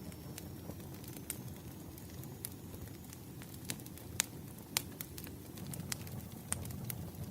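Campfire burning: a steady low rumble of flames with scattered sharp crackles and pops of burning wood, a few louder pops in the second half.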